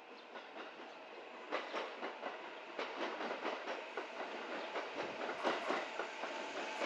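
Sanyo Electric Railway Aboshi Line train coming closer, its wheels clattering over rail joints and growing steadily louder from about a second and a half in.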